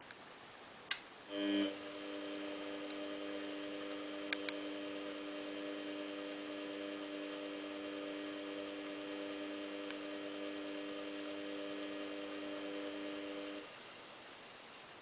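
Samsung WF8804RP washing machine giving off a steady electrical hum. The hum starts sharply just after a click about a second in and cuts off suddenly after about twelve seconds, with a couple of faint ticks partway through.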